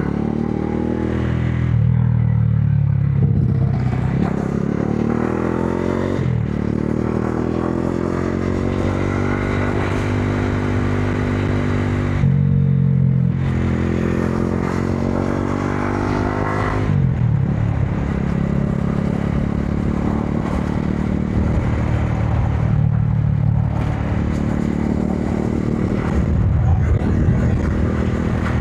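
Modenas Dominar 400's single-cylinder engine pulling the bike along in traffic. The pitch climbs several times as it accelerates, dropping back at each gear change before it rises again.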